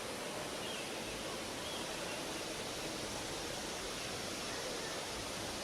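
Steady rushing of flowing water, an even outdoor wash of noise that stops abruptly.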